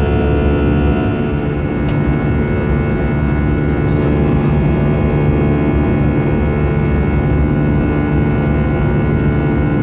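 Airbus A320 jet engines heard inside the cabin: a loud, steady drone with several fixed tones held through, unchanging.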